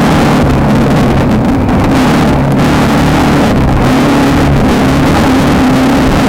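Off-road race car's engine running hard under load, its pitch wavering slightly, over a constant loud rush of wind and rattling from the car.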